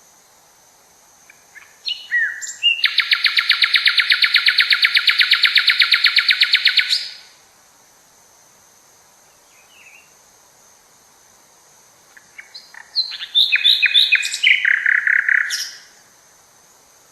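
A songbird singing: a few short introductory notes, then a fast, even trill lasting about four seconds. After a pause of several seconds comes a second phrase of quick notes stepping down in pitch into a shorter trill.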